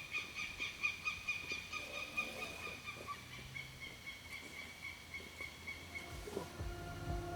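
A bird calling in a long, rapid series of pulsed, high notes that slowly drop a little in pitch and fade after about six seconds. Background music with a beat comes in near the end.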